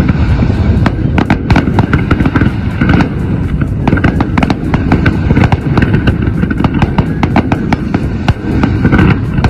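Fireworks going off in rapid succession: dense crackling and popping over a continuous low rumble of bursts.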